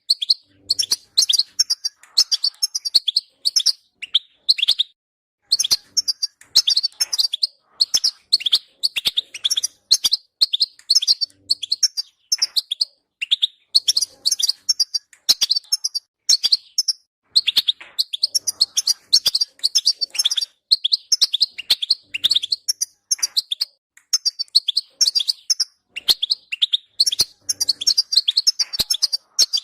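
European goldfinch twittering and chattering: quick runs of high, rapid chirps in bouts of a second or two, broken by short pauses.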